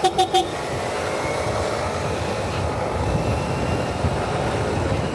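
Steady rush of wind on a helmet-mounted action camera's unshielded microphone while riding a Yamaha Mio Soul i 125 scooter, with engine and road noise underneath.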